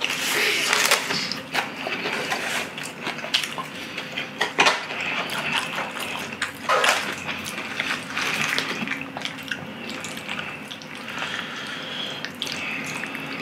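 A person chewing a big mouthful of deep-fried pork cutlet (donkatsu) close to the microphone: crisp crunches, loudest at the first bite, and wet, irregular clicking mouth sounds. Near the end, chopsticks scrape into food in a foil tray.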